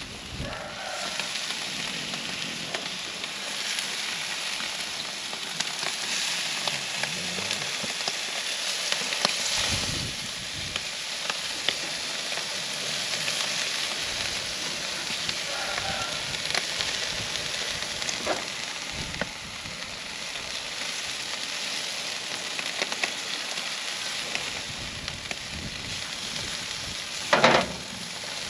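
Food sizzling steadily as it cooks over heat, with small crackles and pops throughout. A brief, louder knock sounds near the end.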